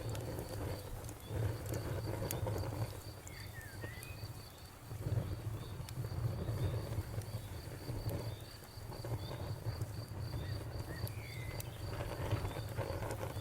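Campfire burning with a low rumble that swells and fades and a few sharp crackles. Crickets chirp steadily in the background, about three times a second, and a couple of short bird-like chirps are heard.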